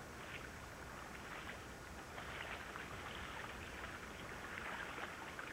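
Faint, irregular splashing and dripping of water, a continuous patter of small spatters that grows a little louder about two seconds in.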